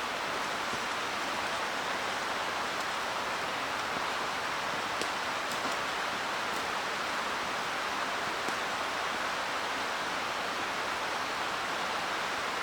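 Mountain headwater stream rushing steadily, with a few faint clicks in the middle.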